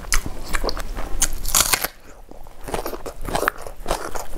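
Close-up mouth sounds of chewing and crunching crisp food: a dense run of crunches that eases off about two seconds in, then picks up again.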